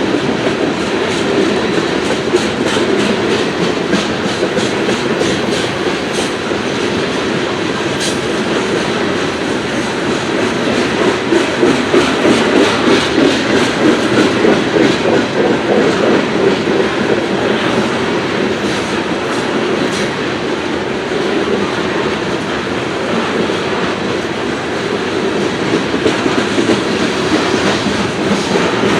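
Coal train cars rolling slowly past: a steady rumble of steel wheels on rail with a dense clickety-clack as the wheels cross rail joints.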